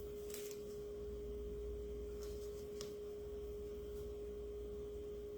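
A steady, pure humming tone at one pitch, with a faint low hum beneath it and a couple of faint clicks.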